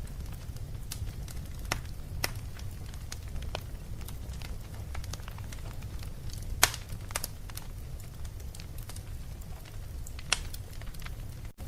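Wood fire burning in a fireplace: a steady low rumble of flames with scattered crackles and pops, the loudest pop about two-thirds of the way through. The sound cuts out for an instant near the end.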